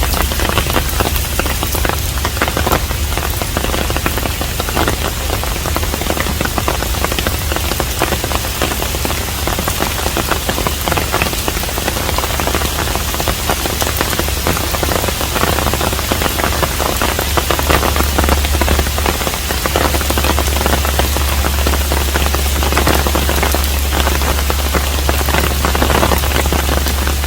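Steady rain falling around a traditional Korean hanok: a dense, even patter of many drops, with a constant low rumble underneath.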